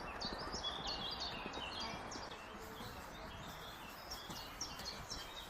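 Small birds chirping in a quick run of short, high notes during the first two seconds or so, then more sparsely, over a steady outdoor background hum.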